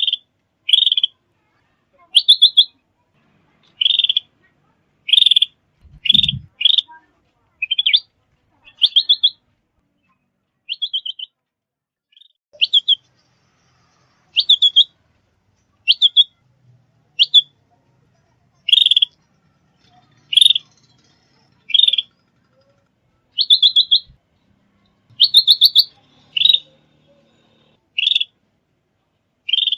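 Small songbird giving short, sharp chirping calls, some broken into quick trills of several notes, repeated roughly once a second with dead silence between them, as in an edited lure recording. A faint low thump about six seconds in.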